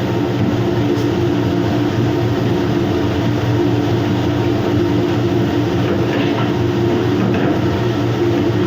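Steady, loud machinery drone with a constant low hum, unchanging throughout, with a couple of faint clinks about six and seven seconds in.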